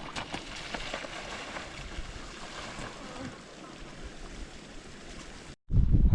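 Wind on the microphone, a steady rushing. After a brief dropout near the end, much louder low buffeting.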